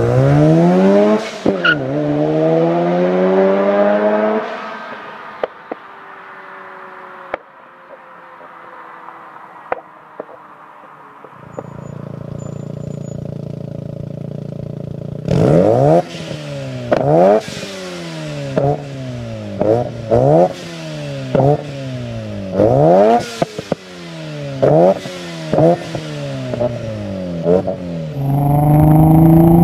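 A Mazda RX-7 FC Turbo's turbocharged 13B rotary engine through an HKS Silent Hi Power exhaust with a test pipe. It accelerates away with one gear change and fades out, then idles steadily. From the middle it is blipped in about a dozen quick revs, and near the end it pulls away again.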